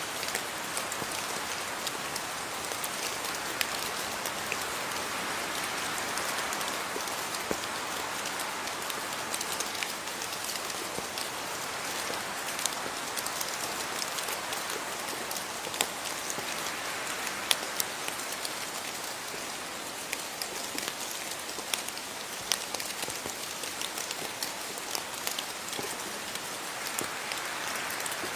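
Steady rain falling on a surface, with many individual drops heard as sharp ticks through the even hiss.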